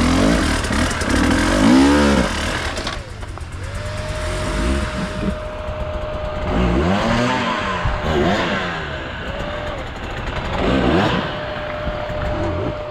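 Enduro motorcycle engine revving up and down repeatedly as it is ridden over rough off-road ground, with wind noise on the microphone. A thin steady tone sounds through much of the second half.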